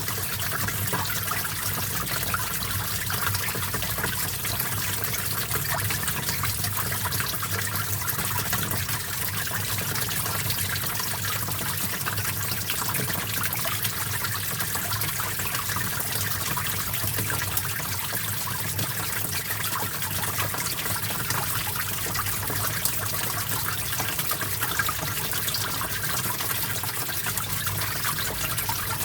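Small stream of water trickling and splashing steadily.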